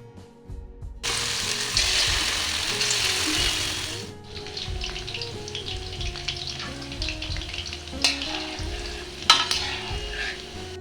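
Battered chicken pakoras frying in hot refined oil in a kadai: a loud sizzle breaks out suddenly about a second in as the pieces go into the oil, eases after a few seconds into a steady sizzle, with a couple of sharp crackles near the end.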